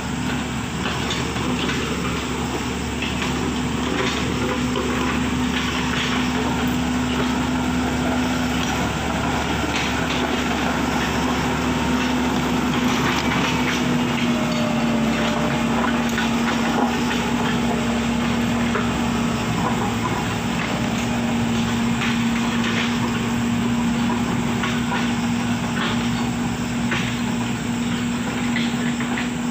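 A road-works machine's engine running steadily at one pitch, dipping slightly about halfway through, with scattered knocks and clatter over it.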